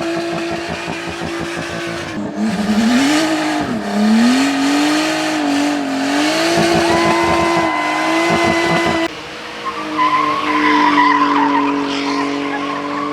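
Car engine held at high revs while its rear tyres spin and squeal in a burnout. The revs dip and climb again about two to four seconds in, and the engine note changes abruptly about nine seconds in.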